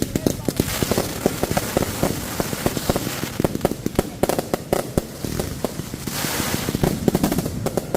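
Fireworks going off in a rapid barrage: many sharp bangs and crackles several times a second, with a hissing swell near the end.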